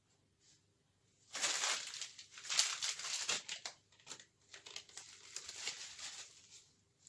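Small paper rubbish being crumpled and rustled by hand, a dense crinkling that starts about a second in, is loudest for the next two seconds and then thins out.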